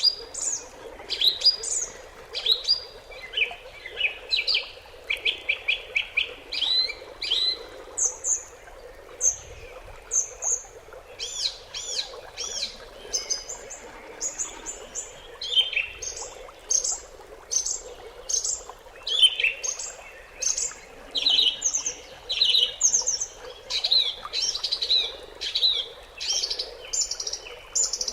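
Several small birds chirping and singing, with quick trills and short rising-and-falling notes overlapping one another, over a steady low background hum.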